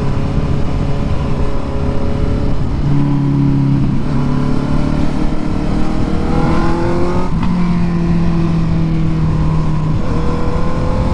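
Honda CB650 inline-four motorcycle engine running under way. Its pitch climbs steadily from about four seconds in, then drops sharply about seven seconds in at a gear change.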